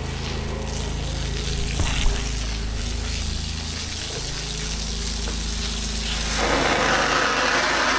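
Pressure washer engine running steadily, with a short knock about two seconds in; about six seconds in a loud hiss of high-pressure water spray starts up over it.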